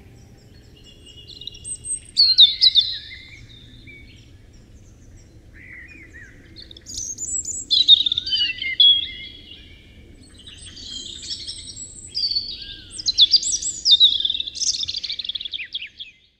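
A songbird singing quick, varied, high chirping phrases in three spells, with pauses between them, over a faint low background hum.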